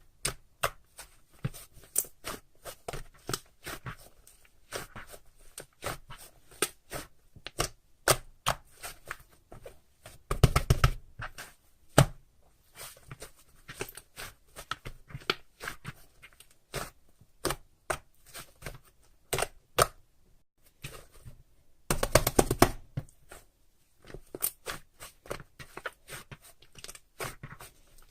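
Many sharp, irregular taps and clicks of small objects being handled close up, with two brief louder rustling bursts, about ten and about twenty-two seconds in.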